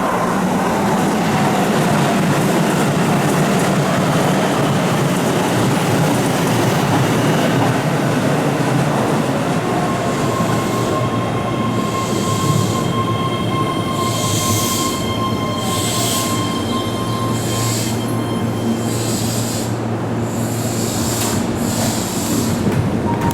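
Keihan electric train running along the curved platform track, its wheels squealing on the curve. The steady rolling noise is joined about halfway through by thin, held squeal tones and then by repeated short high-pitched squeals until the end.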